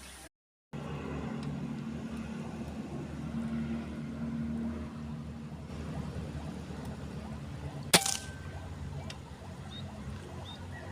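A single air rifle shot about eight seconds in: one sharp crack with a brief ringing after it, over a steady low background rumble.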